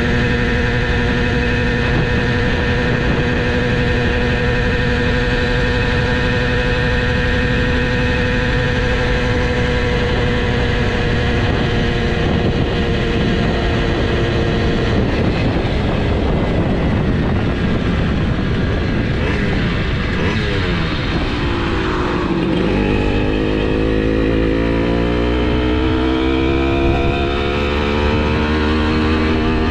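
Simson S51's two-stroke 85cc single running hard at speed. Its pitch holds high and sags slowly, goes ragged about halfway through, then climbs steadily as the engine revs up again.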